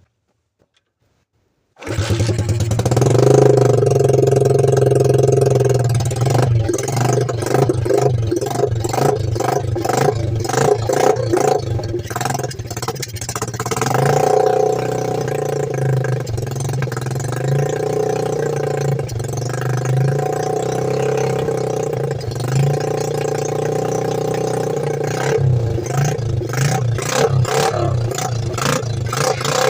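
About two seconds of silence, then two-stroke dirt bike engines revving hard and holding high revs during burnouts, the pitch rising and dropping again and again.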